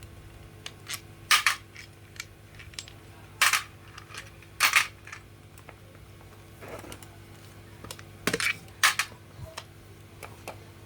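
Scattered sharp metallic clinks and taps, about five loud ones and several fainter ticks, as small metal parts and tools are handled and set down on a workbench, over a steady low hum.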